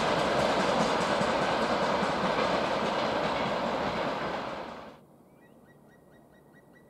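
Freight train's open gondola wagons rolling past on the rails: a steady rumble of wheels on track that drops away abruptly about five seconds in. A few faint high chirps follow in the quiet.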